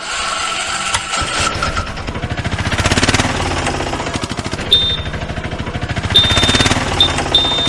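An engine running with a fast, even chugging beat, like a diesel tractor or digger. From about halfway, several short high beeps sound over it.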